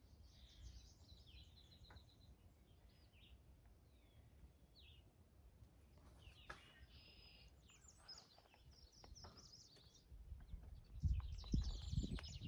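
Faint birdsong: small birds chirping and warbling in short phrases. About two-thirds of the way through, irregular low thumps start and become the loudest sound.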